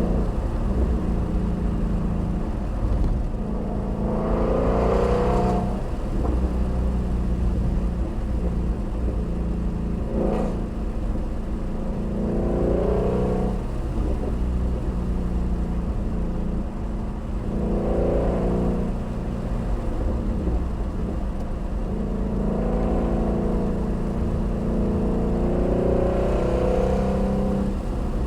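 Ford Shelby GT350R's flat-plane-crank 5.2-litre V8 running under way, a steady drone broken by several swells of acceleration a few seconds apart.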